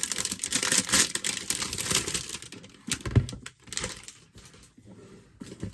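Hands handling and rustling packaging around a book-shaped box: a dense patter of small clicks and rustles for about two and a half seconds, then a few scattered taps and knocks.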